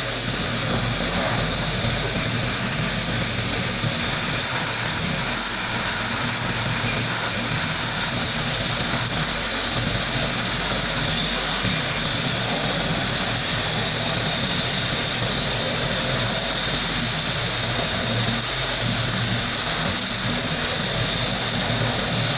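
Sandblasting gun blasting moped frame parts: a steady, continuous rush of compressed air and abrasive with a hissing top, running without a break.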